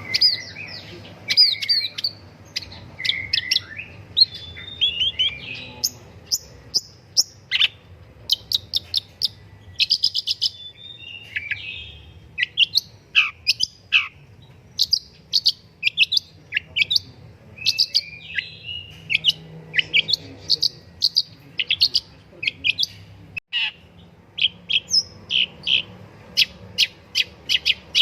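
Long-tailed shrike singing: a fast, varied, near-continuous stream of sharp chirps and short whistles, many sweeping quickly downward in pitch, with only brief pauses.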